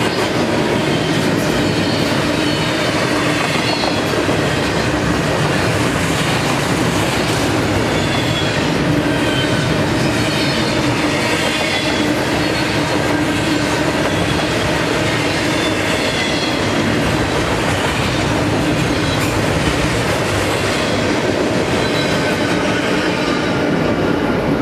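Freight train cars rolling past at close range: a steady rumble and clatter of steel wheels on rail, with thin high wheel squeals drifting in pitch over it.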